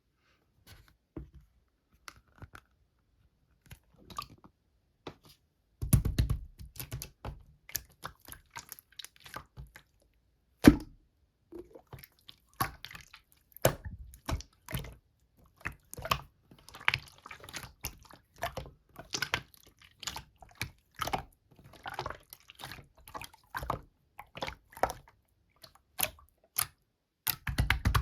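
Slime being squished, pressed and stretched by hand, making irregular sticky clicks, crackles and wet pops, with a few heavier squelches around six seconds in and near the end.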